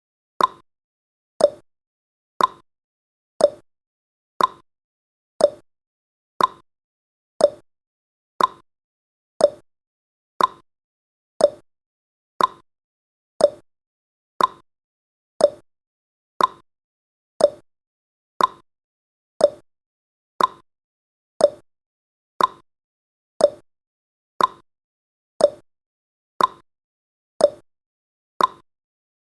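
Countdown timer's tick sound effect: one short, quickly fading tick every second.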